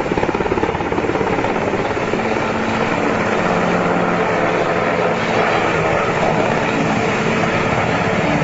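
Helicopter running, its rotor blades making a steady, rapid chop.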